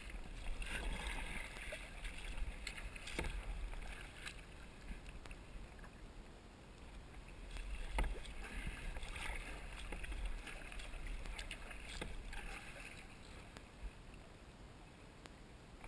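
Kayak paddle strokes dipping and splashing in the river water in uneven bursts, over a low rumble. There is one sharp knock about eight seconds in.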